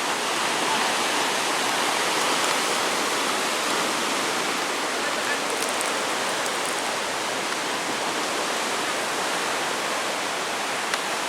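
Tidal bore surging up a river: a steady, loud rush of churning water.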